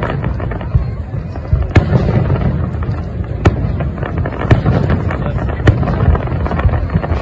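Fireworks display: aerial shells bursting in a continuous barrage of sharp bangs and crackles over a steady low rumble. The loudest reports come about once a second.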